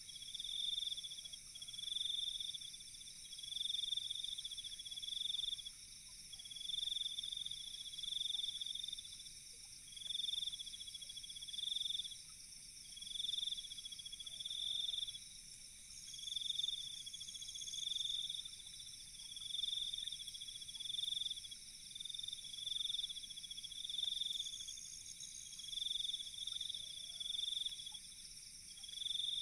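Night insect chorus: one loud insect sings in repeated trilled phrases roughly every two seconds, over a steady, higher-pitched trilling from other insects.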